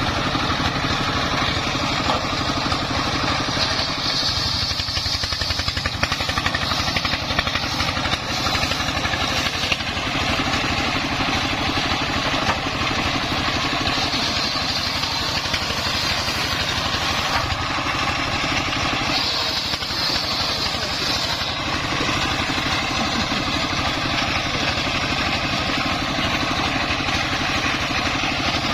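Single-cylinder Dongfeng 24 hp diesel engine running steadily with a fast, even throb, driving a homemade circular saw. A higher-pitched sound rises over it a few times, about four, fourteen and nineteen seconds in.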